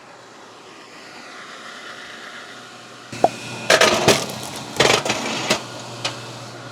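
Electric rapid-action kinetic log splitter working an oak round: a faint running-up sound, then the ram drives in and the wood splits with loud cracking in two bursts about four and five seconds in. A steady motor hum runs underneath from about three seconds in.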